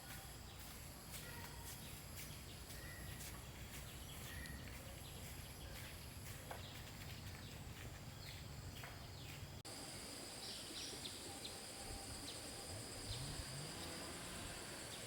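Rural outdoor ambience: a steady high insect drone with a few faint bird chirps over a low background hum. The background changes abruptly about ten seconds in.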